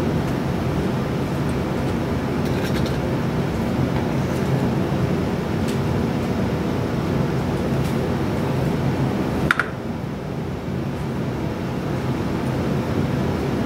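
Steady droning machine hum with a few light clicks and taps over it. A sharper click about nine and a half seconds in, after which the hum is slightly quieter.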